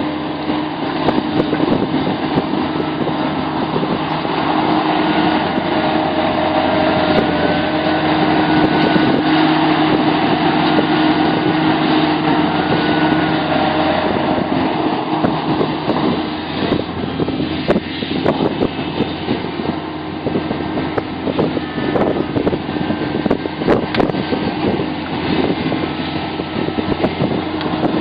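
Large hydraulic excavator, a Sumitomo SH700LHD-5, working: its diesel engine runs steadily under load while a hydraulic whine shifts up and down in pitch. In the second half, sharp knocks and clanks come thick and fast.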